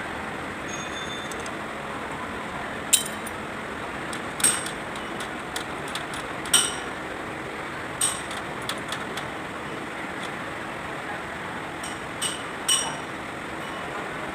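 Metal objects clinking sharply, about six times with short ringing tails, over a steady background hiss.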